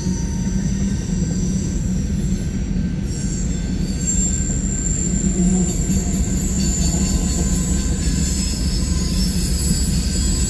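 Empty coal train's cars rolling past in a steady, loud rumble, with a continuous high-pitched squeal from the wheels as they take the curve onto the junction.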